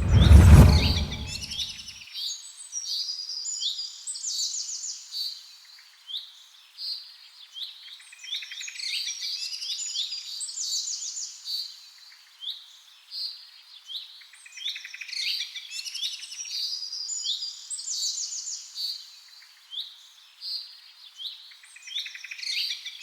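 Several small songbirds chirping and trilling in a dense, continuous chorus. At the start a loud low whoosh swells and fades within about two seconds.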